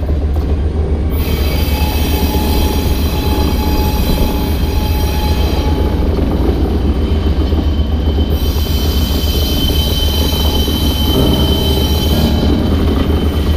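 Diesel freight train rolling past close by, led by a Union Pacific locomotive whose engine runs under a steady low rumble. High, steady wheel squeal rings out as the wheels take the curve.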